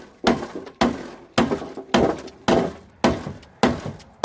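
Steady, repeated hammer blows, about two a second, each a sharp strike with a short ring.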